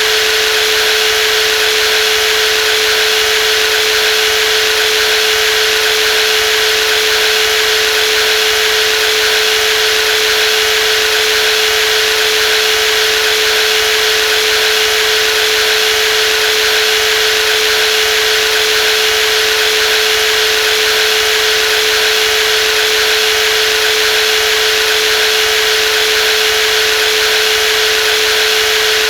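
Brushless jigsaw running steadily at constant speed, a continuous whine with one strong steady tone and a dense hiss above it.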